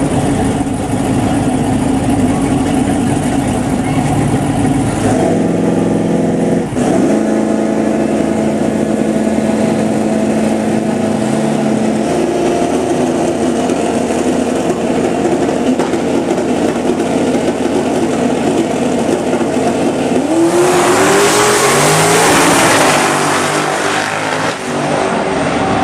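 Turbocharged LS V8 drag cars running steadily at the line, then launching about twenty seconds in: a loud rise in engine pitch as they accelerate away, stepping down several times as they shift through the gears.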